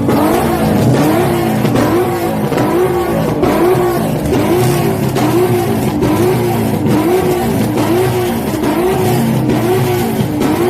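Car engine running hard, its pitch swinging up and down in a steady cycle about once every 0.7 seconds.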